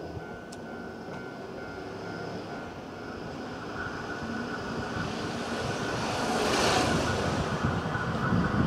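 Hankyu electric train approaching along the track, its distant rumble growing steadily louder, with a thin steady high tone above it.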